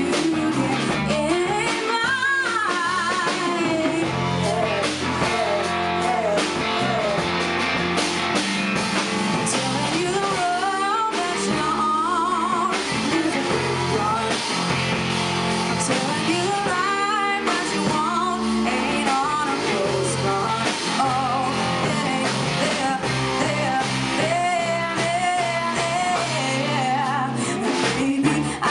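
A rock band performing a song, with a lead vocal sung over guitar and a full band backing.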